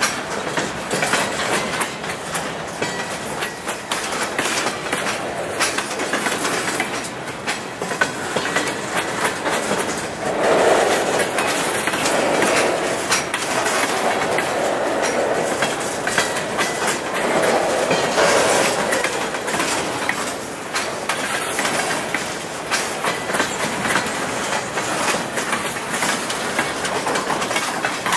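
Freight train boxcars rolling past, steel wheels clicking over rail joints in a steady, continuous clatter.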